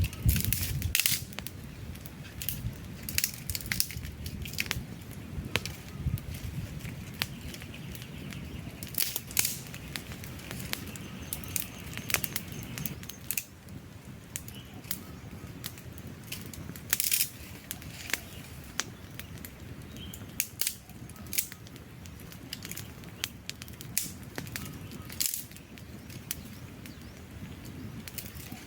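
Wood fire burning: logs crackling with frequent, irregular sharp pops over a low, steady rush of flame.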